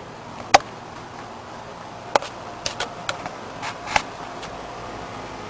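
Scattered sharp clicks and knocks over a steady low hiss: one about half a second in, another a little after two seconds, then a quick run of smaller ones up to about four seconds in.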